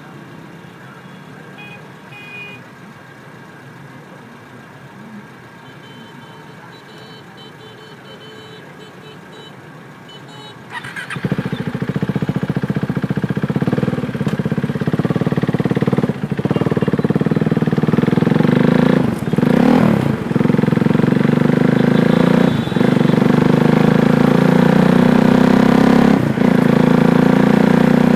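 KTM Duke 390's single-cylinder engine starting about eleven seconds in, after a quieter stretch, then running loud and steady with several brief dips in its sound.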